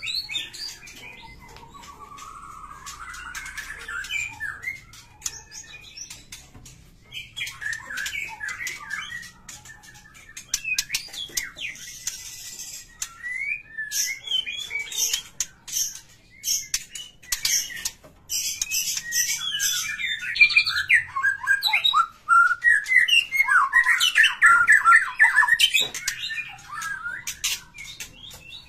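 Small birds chirping and squawking in many short, quick calls, with sharp clicks among them; the calling grows busier and louder in the second half.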